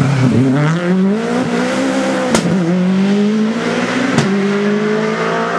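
Rally car accelerating hard, its engine note climbing in pitch, broken by two sharp cracks about two seconds apart.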